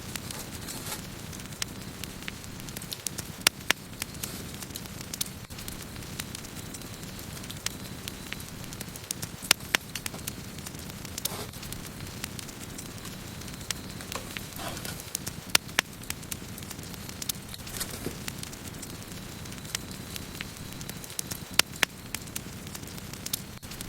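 Wood campfire burning: a steady low rumble of flames under irregular sharp crackles and pops from the burning wood, a few of them much louder than the rest.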